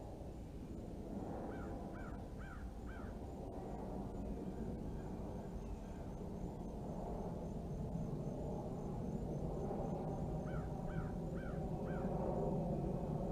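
Red-bellied woodpecker calling: two runs of four short, arched calls, one about a second and a half in and another near the end, over a steady low rumble that grows louder toward the end.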